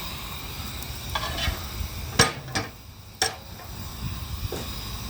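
Steady hiss of a steam boiler's blower, steam jetting through a ring of holes to draw air up the stack and through the firebox. Three sharp knocks come about two to three seconds in, and the hiss dips briefly between them.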